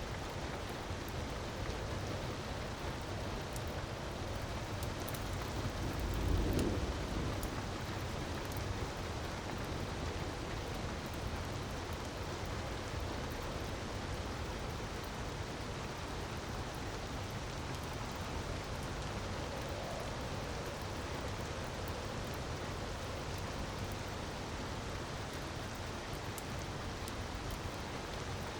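Steady rushing water ambience, with faint sharp crackles from a wood fire scattered throughout and a short low rumble about six seconds in.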